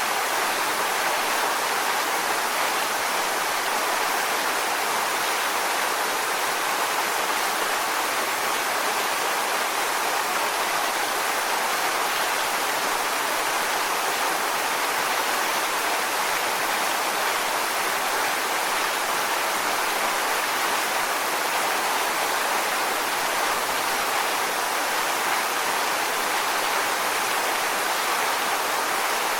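Waterfall: a continuous, steady rush of falling water, even throughout with no distinct splashes.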